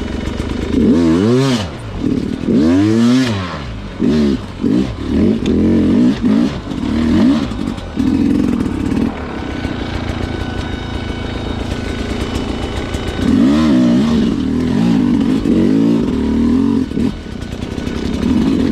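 Two-stroke Sherco dirt bike engine revved hard in repeated throttle bursts, the pitch rising and falling sharply with each blip, with steadier running in the middle, as the bike is worked over technical trail obstacles.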